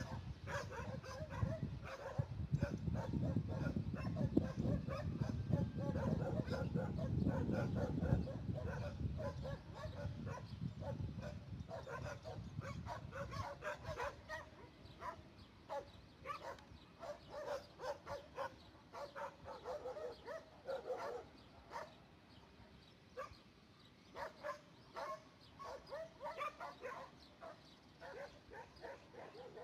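Low rumble of a long freight train of hopper wagons, fading out about halfway through, under a dog barking and yelping again and again, about once or twice a second.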